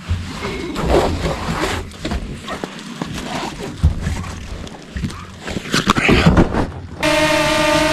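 Irregular rustling and knocking, then about seven seconds in an abrupt change to a steady, even motor drone with a high whine above it.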